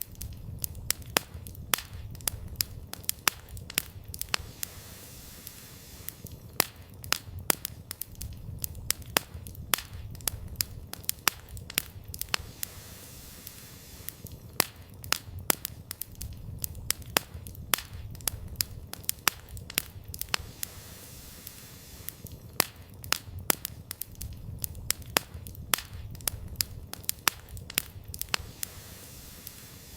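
Campfire burning: wood crackling and popping in sharp, irregular snaps, often several in quick clusters, over a low steady rush of the flames.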